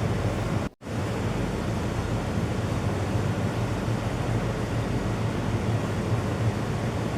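Steady rushing background noise with a low hum underneath, cutting out briefly for a moment under a second in.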